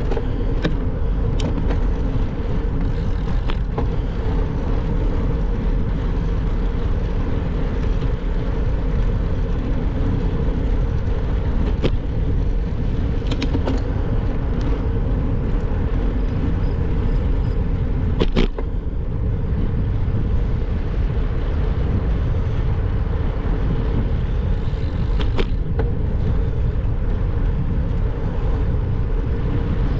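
Steady wind and road rumble of a bicycle ride, with a few sharp clicks and knocks scattered through, the loudest about eighteen seconds in.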